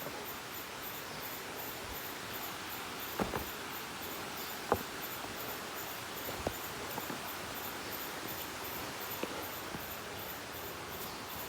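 Outdoor trail ambience: a steady hiss with a few scattered crunches and snaps of footsteps, and a faint, very high ticking repeating about three times a second.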